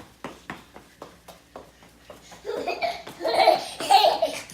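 A run of light taps, about three or four a second, then from about halfway a young child's loud belly laughter in repeated bursts.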